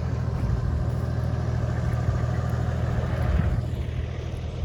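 Vehicle engine and road noise while driving, a steady low hum.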